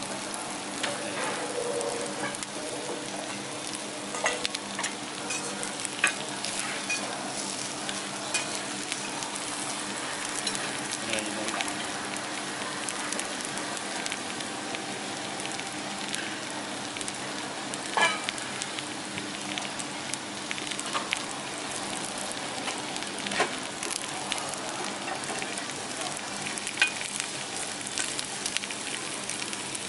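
Cabbage and carrot sizzling in oil on a flat steel teppanyaki griddle, a steady frying hiss, with a few sharp clicks of a metal spatula on the plate.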